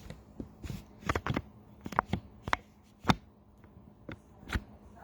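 About ten irregular clicks and light knocks of objects being handled, the loudest a sharp knock about three seconds in, over a faint steady hum.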